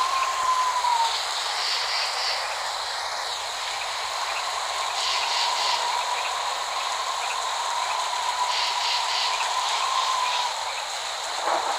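Steady rain falling, a dense even hiss. A thin, slightly wavering whistle-like tone runs through it for a few seconds at a time.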